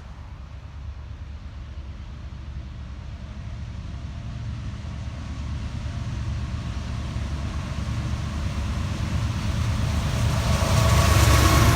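Diesel freight train approaching: a low engine rumble that grows steadily louder, with rising rail and wheel noise as it draws close near the end.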